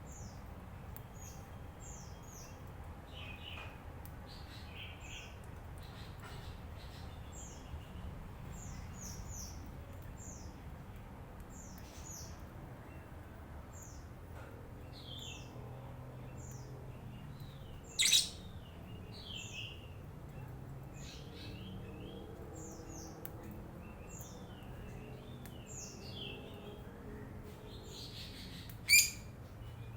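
Lovebird chattering: a steady run of short, high chirps, with two loud, shrill shrieks, one a little past halfway and one near the end.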